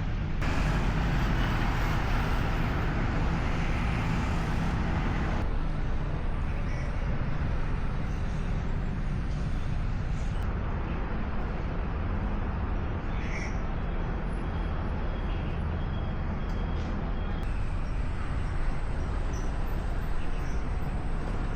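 Steady vehicle running noise, a low engine and road rumble under an even hiss, with no sharp events.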